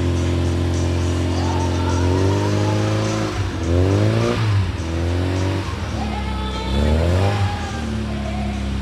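Car engine idling, then revved up twice, its pitch rising and falling back each time before it settles to idle again.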